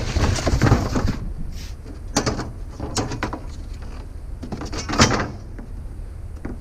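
Scrap items being slid and shifted across a truck bed, scraping and knocking: a long scrape at the start, then shorter scrapes about two, three and five seconds in, over a steady low rumble.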